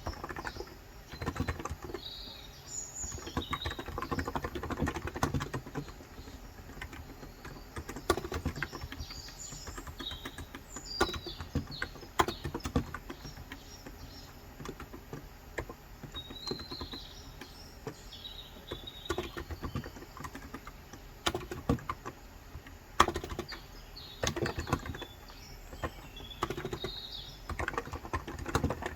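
Typing on a COX Endeavor electro-capacitive (35g) tenkeyless keyboard: quick runs of soft key strokes in bursts, with short pauses between them. Birds chirp now and then in the background.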